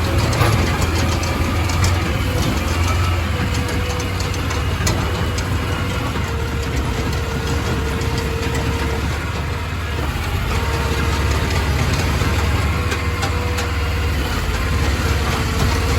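A crawfish boat's engine running steadily, with scattered light clicks and knocks over it.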